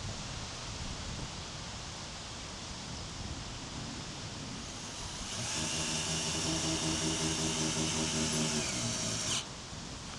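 A small electric motor, like a power tool's, runs steadily with a high whine for about four seconds, starting about halfway through and cutting off suddenly.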